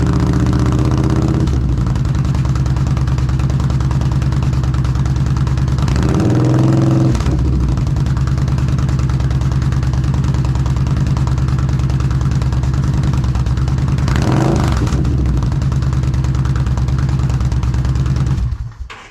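Yamaha V-Star motorcycle's V-twin idling through an aftermarket Delkevic muffler, revved briefly twice, about six and fourteen seconds in, then shut off near the end.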